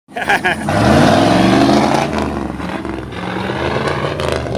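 Race truck's V8 engine revving hard, the pitch climbing for a second or so and then settling into a lower, steadier run.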